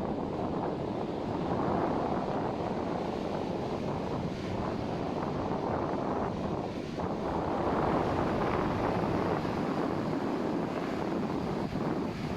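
Ocean surf washing onto a sandy beach, mixed with wind rumbling on the microphone. It is a steady noise that swells as waves break, about two seconds in and again near the eight-second mark.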